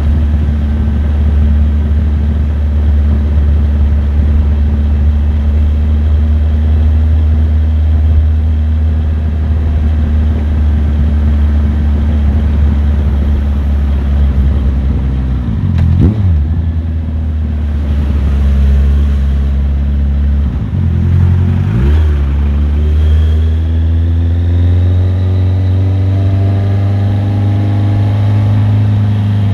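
Motorcycle engine running steadily on the move. Its revs drop sharply and climb straight back twice, about halfway and about two-thirds through, then rise steadily near the end as it accelerates.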